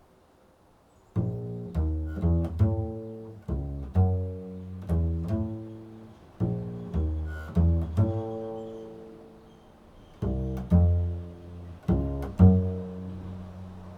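Improvised music of low plucked notes, each starting sharply and dying away, played at about one to two notes a second and starting about a second in.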